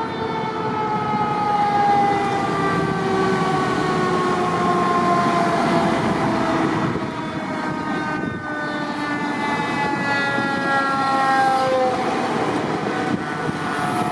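Fire truck siren wailing, its pitch falling slowly over several seconds, then rising again about eight seconds in and falling once more, over the rumble of truck engines and traffic.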